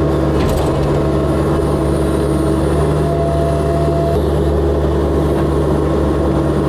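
Excavator's diesel engine running steadily under load. A brief thin hydraulic whine comes in about three seconds in, and there is a light knock about half a second in.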